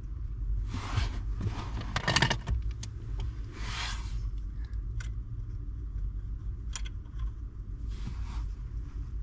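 Scattered clicks, short metallic rattles and scrapes as parts and tools are handled at a car's steering column, loudest in a jingling cluster about two seconds in, over a steady low hum.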